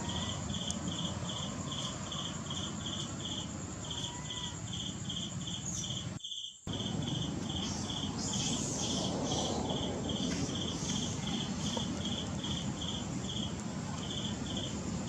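Insect chirping in a steady, even rhythm of about three short high chirps a second, over a background hiss; the sound drops out briefly about six seconds in.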